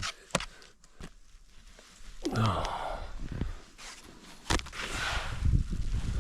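A person moving out through a snow shelter: scattered knocks and scuffs, and a sigh about two seconds in. Near the end, low wind noise builds up on the microphone.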